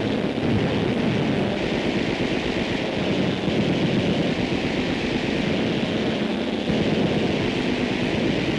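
Steady, dense roar of aircraft engines on an old newsreel soundtrack, with no separate shots or blasts standing out.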